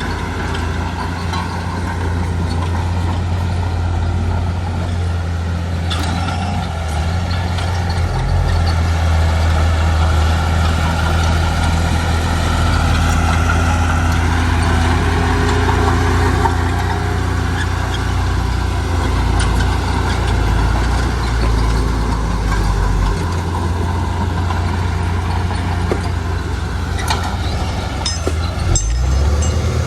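Heavy diesel engines of earthmoving machinery running steadily under load, the engine note shifting about eight seconds in and again a little past twenty seconds, with a few sharp knocks near the end.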